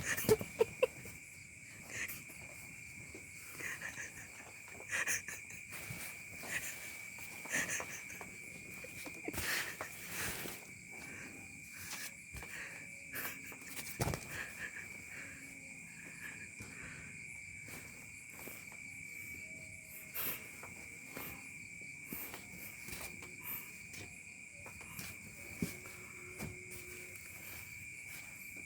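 Continuous insect chirring at one steady high pitch, with scattered short clicks and taps over it; the loudest taps come in the first second.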